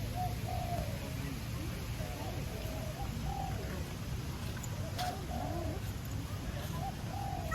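Birds calling: a run of short, wavering notes repeated one after another over a steady low background rumble.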